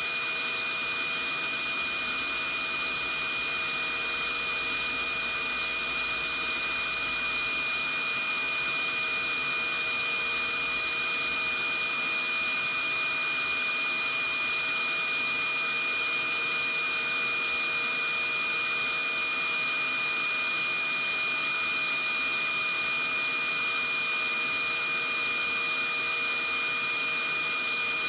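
Vacuum cleaner running steadily: an even rushing noise with a constant high motor whine, unchanging throughout.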